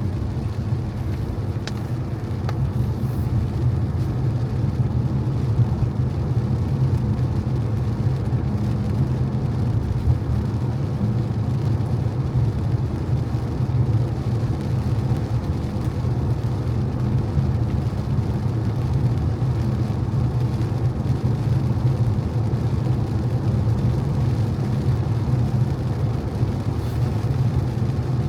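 A car driving on wet roads in the rain, a steady low rumble of tyres and engine with no change in pace.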